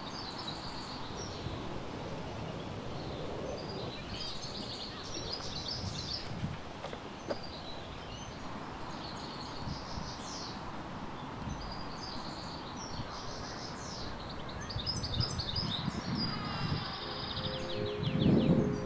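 Small birds chirping and singing on and off over a steady outdoor background rumble, with a louder low rumble swelling near the end.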